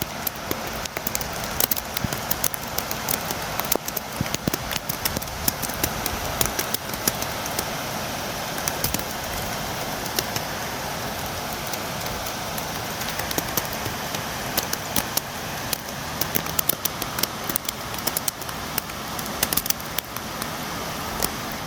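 Steady rain falling, with a dense crackle of individual drops tapping on a window.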